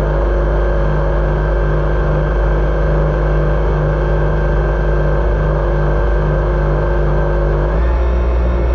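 Jet ski engine running steadily at constant throttle, with the rush of water and wind around it. Its low hum changes pitch about eight seconds in.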